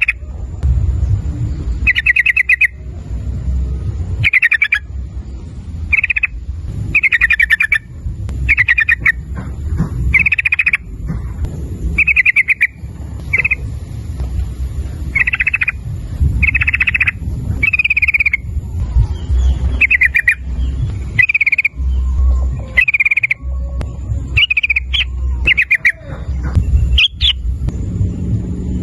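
A yellow-vented bulbul (trucukan) singing loudly in full voice, giving short phrases one after another, about one to two seconds apart, with a steady low rumble underneath.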